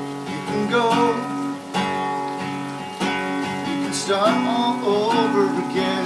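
Song intro: a strummed acoustic guitar, chords struck about every second and a half, with a gliding melody line over it.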